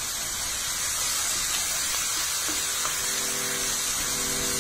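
Minced shallots sizzling in hot butter in a frying pan, a steady hiss, as they are sautéed and stirred with a wooden spatula, with a few faint scrapes. Faint steady tones come in about halfway through.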